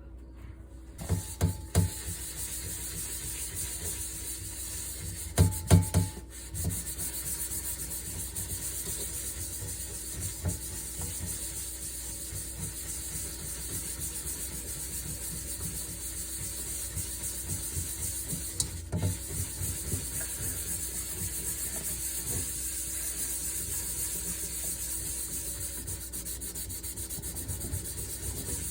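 Steady scrubbing of cookware, a scourer rubbing back and forth over its surface. A few loud knocks and clatters come in the first six seconds, and a few smaller ones later.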